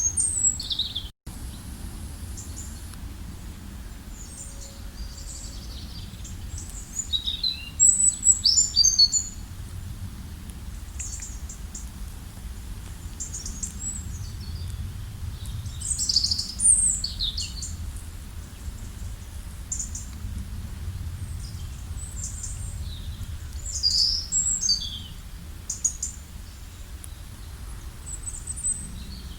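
Songbirds chirping and trilling in short, scattered phrases over a steady low background rumble, with a brief cut-out about a second in.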